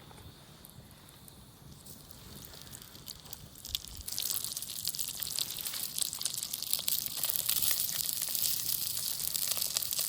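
Kimchi dumplings frying in oil in a pan: a steady crackling sizzle starts suddenly about four seconds in, after a quiet start.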